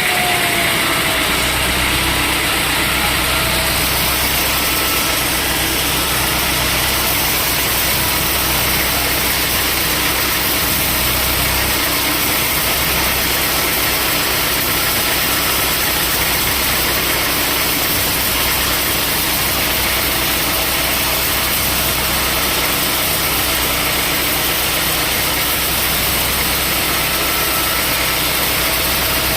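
Sawmill machinery running steadily: a constant loud mechanical drone with hiss.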